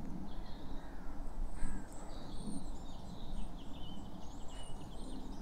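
Small birds chirping, with high, thin calls scattered all through, over a low, steady outdoor rumble.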